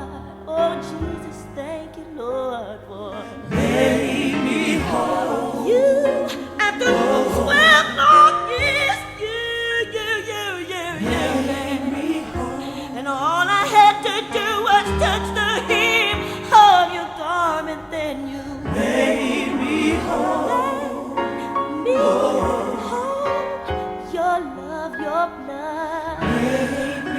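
Gospel singing in a church, voices held with vibrato over steady sustained instrumental chords.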